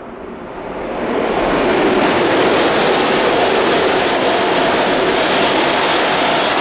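Shinkansen train passing through the station at high speed without stopping: a rushing noise of air and wheels that swells over the first second and a half, then holds steady and loud. Wind from the passing train hits the microphone.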